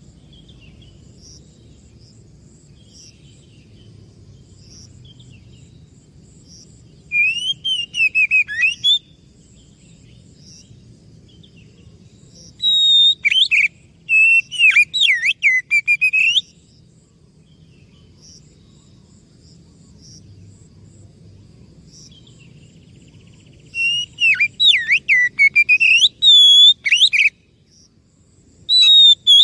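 Oriental magpie-robin (kacer) singing: loud phrases of rich, rapidly gliding whistles and chirps, three songs a few seconds long separated by pauses, with another beginning at the very end. Faint high chirps and a low hum fill the pauses.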